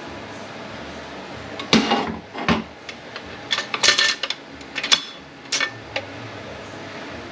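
Metal transmission internals clanking and clinking against each other and the bench as they are handled during teardown: a series of sharp knocks from about two to six seconds in, several with a brief metallic ring.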